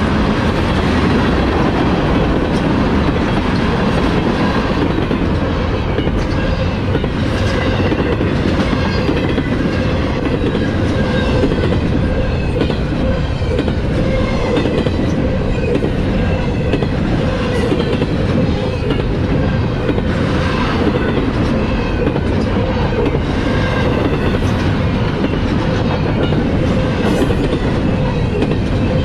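Freight train cars rolling steadily past at trackside: tank cars, then multi-level autorack cars. Steel wheels rumble on the rail with a clickety-clack and a faint steady whine.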